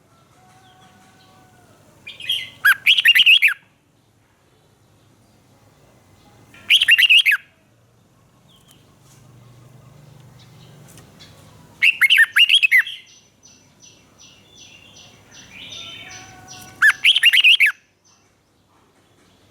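Red-whiskered bulbul singing four short, loud phrases of quick sweeping whistled notes, about five seconds apart, with fainter bird calls between them.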